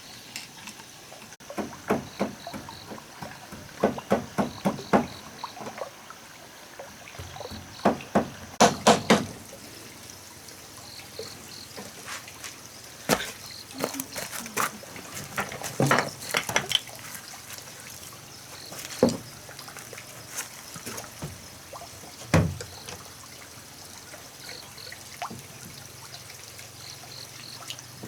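Irregular sharp knocks and taps, in short clusters with pauses between them.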